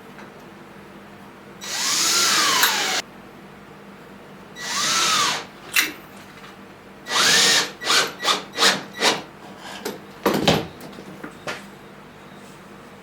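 Electric drill run in trigger bursts: one long run, a shorter one, then a string of quick blips. The motor pitch climbs and falls as it spins up and down.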